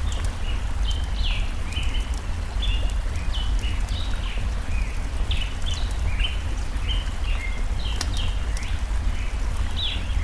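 Forest ambience: a stream's steady rush with a deep low rumble, a bird chirping over and over in short high notes, and scattered sharp crackles from a campfire.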